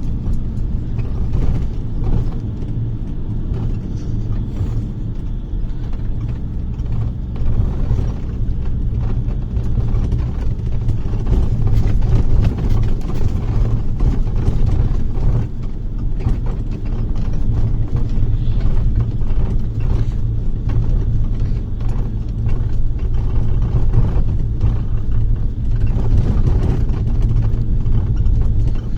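Bus engine and road noise heard inside the cabin: a steady low drone and rumble, with frequent small clicks and rattles.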